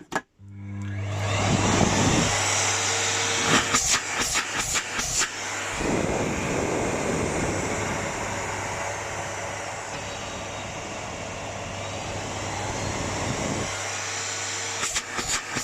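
Miele Complete C3 Cat & Dog PowerLine vacuum cleaner switched on with no hose fitted: the motor spins up within about a second, then runs steadily with a strong rush of air and a low hum. A few quick clicks come in the middle and again near the end.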